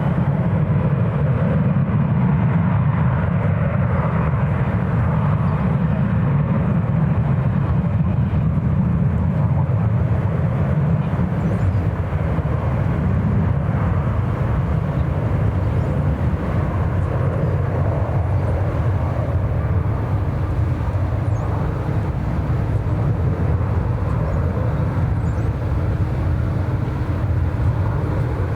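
Jet airliner engines giving a steady low rumble, the higher part of the noise slowly fading.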